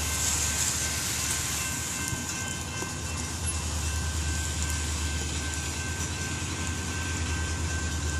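Norfolk Southern diesel train approaching, a low rumble that grows stronger about three seconds in, over the hiss of rain and a few steady high tones from the level crossing's warning signal.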